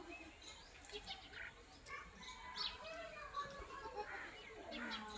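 Several small birds chirping and calling, short high notes overlapping one another, fairly faint.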